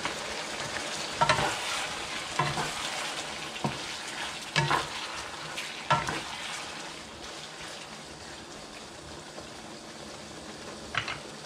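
Chicken thigh pieces and chicken livers sizzling in a nonstick pan while tomato sauce is stirred in with a wooden spatula. Several sharp knocks and scrapes of the spatula against the pan come in the first half and once near the end.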